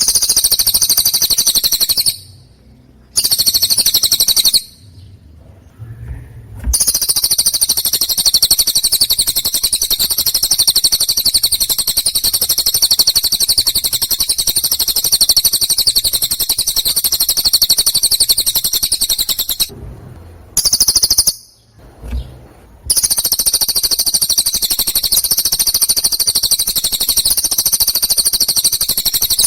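Songbird singing a rapid, high-pitched trill held for long unbroken stretches, with short pauses about 2 and 5 seconds in and again around 20 to 23 seconds.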